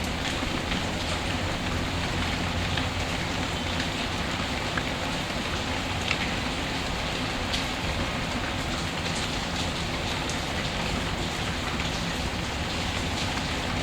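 Steady rain falling, mixed with a fireplace: an even hiss of rain with scattered small crackles.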